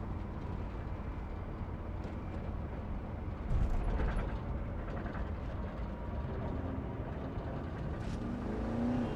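Car driving, heard from inside the cabin: a steady low engine and road rumble, with a louder bump about three and a half seconds in.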